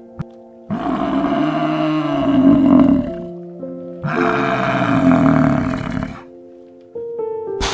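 An animal calls twice, each harsh call lasting about two seconds, over background music with held notes.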